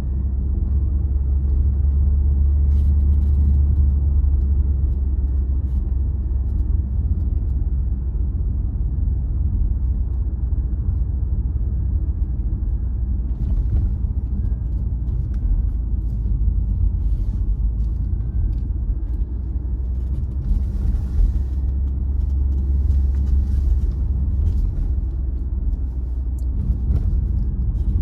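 Car driving along steadily: a continuous low rumble of engine and tyre noise, with a few faint clicks.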